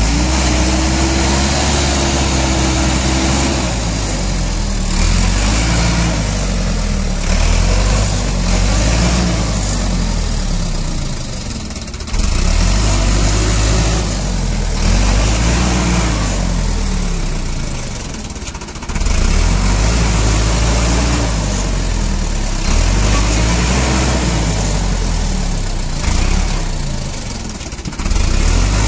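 Heavy diesel engine of working machinery, revving up and down again and again, its pitch rising and falling every few seconds. The sound changes abruptly a few times, as at cuts between clips.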